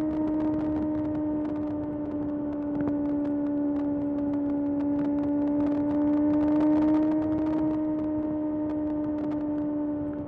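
Kawasaki ZX-6R's 636 cc inline-four engine running at steady high revs under way, its pitch sagging slightly and then climbing a little past the middle.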